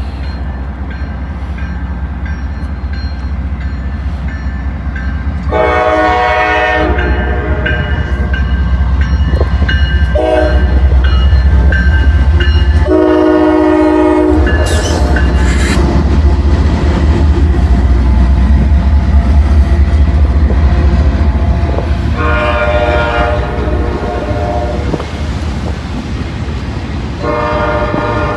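Norfolk Southern freight train approaching and passing, its locomotive sounding the horn five times: a long blast, a short one, a long one, then after a pause two more long blasts. A steady low rumble of engines and wheels swells as the train draws level, with wheels clacking over the rail joints.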